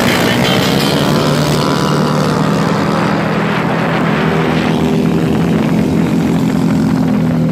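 Several scooter and motorcycle engines running as a group rides off together, heard from a rider among them: a steady engine drone under a broad rushing noise.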